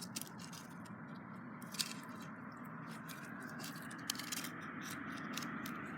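Sticks and twigs being handled and worked into a nest, giving a run of small clicks, scrapes and crunches over a steady rustling background that grows slightly louder toward the end.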